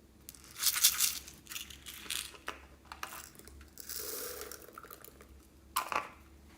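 Slime being worked by hand: a run of crackling, crinkly bursts, the loudest about a second in, with a sharp click near the end.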